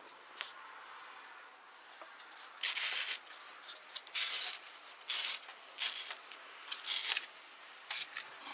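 A series of short rasping, rustling strokes, about seven in five seconds, each lasting under a second, over a faint steady background.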